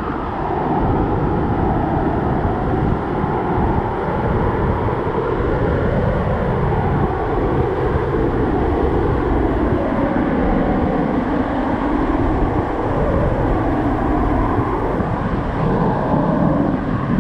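Waterfall roar: a loud, steady rush of falling water.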